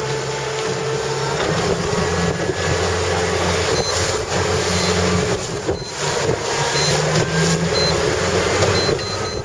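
Engine of a small motorboat running steadily, its low hum shifting slightly in pitch, with wind and water noise. A few short, faint high beeps sound in the second half.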